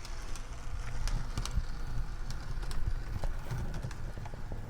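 O-gauge model train rolling along three-rail track: a steady low rumble with irregular clicking of the wheels over the rail joints.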